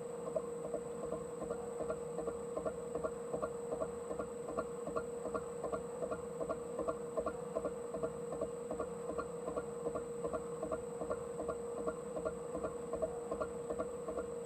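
Metal lathe turning a steel crankshaft web with a carbide insert tool: a steady hum from the running lathe, with a regular tick about three times a second as the tool cuts.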